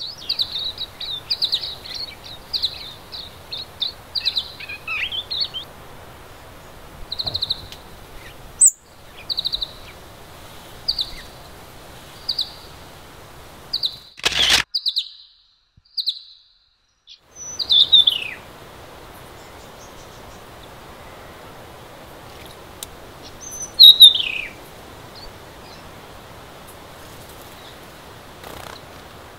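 Small songbirds calling: a quick, even series of short high chirps for the first half, then after a brief burst of noise and a short silence, two sharp calls that slide downward in pitch, with a faint outdoor hiss beneath.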